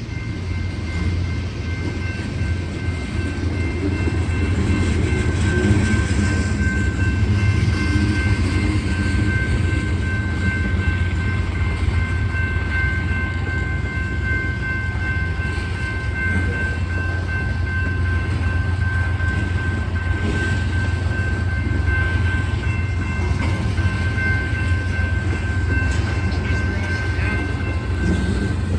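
Freight train cars rolling past with a steady, loud low rumble, and a continuous high-pitched whine of several steady tones over it.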